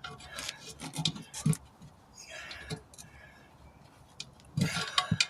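Tire iron prying a stiff truck tire bead on a steel rim by hand: rubber and metal scraping, with a few sharp knocks early on and a louder cluster of knocks near the end.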